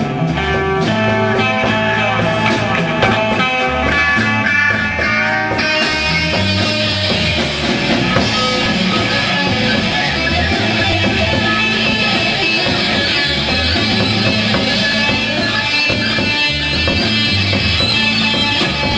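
Rock band playing live: an instrumental passage of electric guitar over bass and drums. About five or six seconds in, cymbals come in and the sound fills out.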